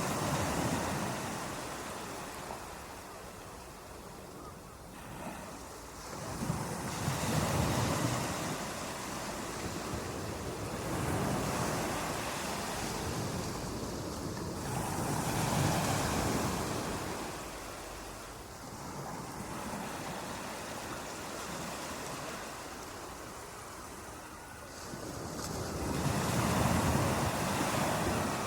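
Ocean waves breaking on a beach and washing up the shore, rising and falling in slow swells several times, with a quieter lull in the middle.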